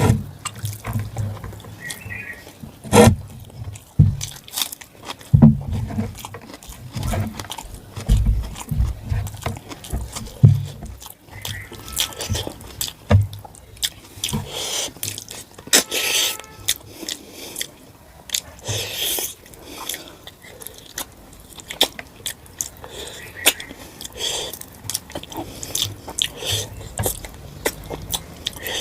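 Close-miked eating sounds of rice and mutton curry: wet chewing, lip smacks and mouth clicks, coming irregularly. There are a few low thuds in the first part.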